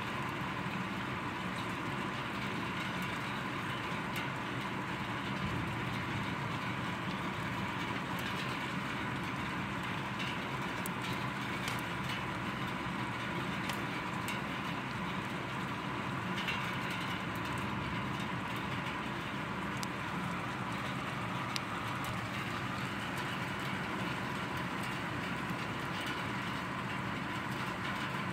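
Heavy rain falling steadily, with scattered drop ticks and no thunder.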